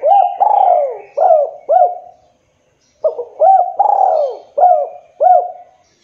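Spotted dove (tekukur) cooing: two song phrases, the second starting about three seconds in. Each phrase has a short note, a longer note, then three shorter coos.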